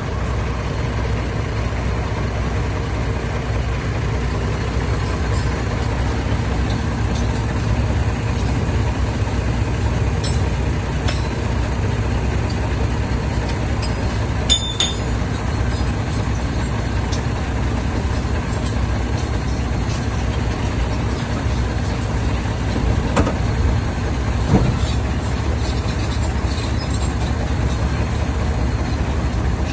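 Heavy diesel earthmoving machinery running steadily with a deep rumble, with a brief sharp squeal about halfway through and a couple of clanks near the end.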